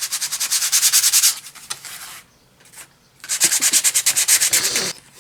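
Fine-grit sandpaper rubbed over a painted wooden cutout in fast back-and-forth strokes, about ten a second, to smooth the paint-raised grain. It comes in two bursts with a short pause between them.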